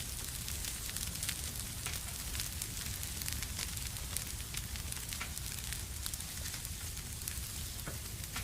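Fire burning in a fireplace, crackling with frequent sharp pops over a steady hiss and a low rumble.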